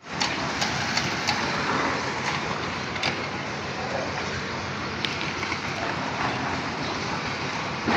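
Steady machinery and traffic-like noise at a construction site, with a few sharp knocks scattered through it.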